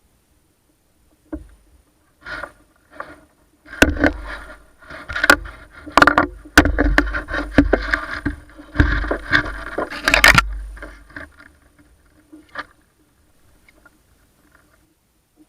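A string of sharp knocks and heavy thumps with scraping against a fishing kayak's hull, densest in the middle and tailing off to a few light taps near the end.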